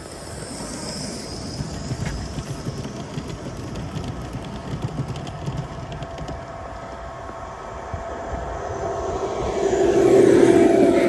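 Gauge 1 live steam model train running on the track, growing louder towards the end as it comes past, with its pitch falling at the closest point.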